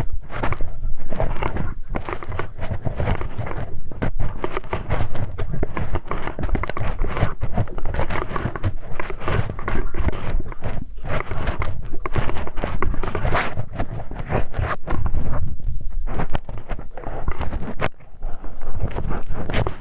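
Close-miked scraping, rubbing and clicking of a metal hex wrench worked in a microphone's ear, as ASMR ear-cleaning sounds. Continuous scratchy rustle broken by many small knocks.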